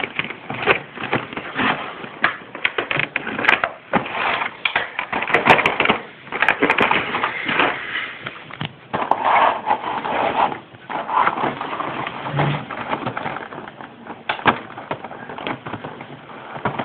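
Plastic blister packaging and cardboard crinkling and crackling in irregular bursts as a boxed model airplane is worked loose by hand.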